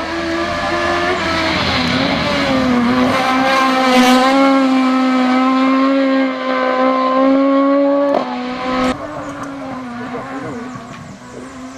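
Rally car engine at high revs as the car goes past, its note held steady for several seconds, then dropping sharply about eight seconds in and fading away.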